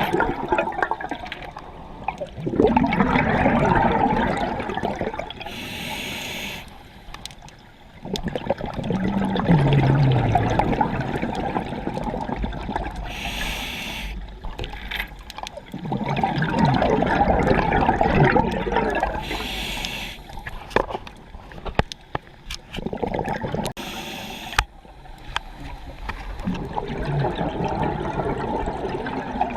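A scuba diver breathing through a regulator underwater, in a steady cycle about every six or seven seconds. Each breath is a short hiss as the regulator delivers air on the inhale, followed by a few seconds of bubbling as the exhaled air leaves the exhaust valve.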